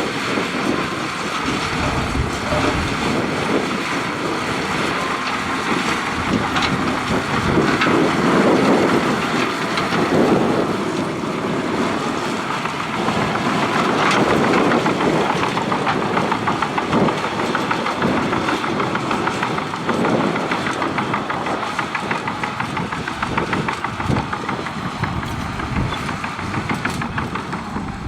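Shantui DH17C2 crawler bulldozer at work: its diesel engine running under load with a steady, rapid clatter of steel tracks. The noise swells louder about a third of the way in and again near the middle.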